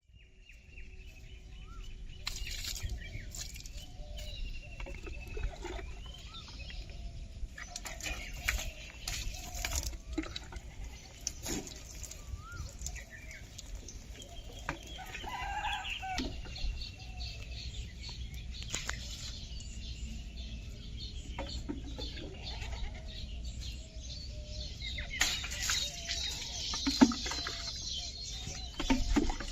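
Chickens clucking and other birds calling, with scattered knocks and clatter and a louder knock near the end.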